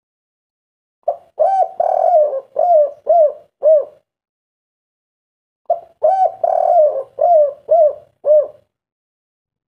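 Spotted dove (tekukur) cooing in its 'kuk 3' song: two phrases of about six to eight short, arched coo notes each, starting about a second in and again just before halfway through, with silence between them.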